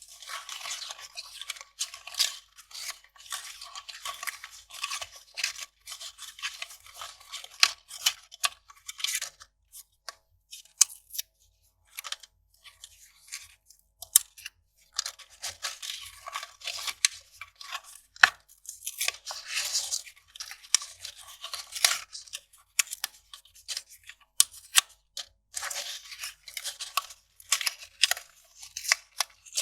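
Kraft paper rustling and crackling as it is crumpled and torn, in dense bursts with quieter stretches of sparse crackles between them.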